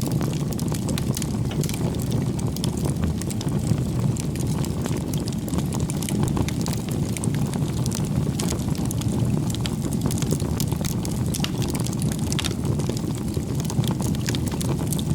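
Bonfire of firewood burning: a steady low rumble of flames with frequent small crackles and pops from the wood.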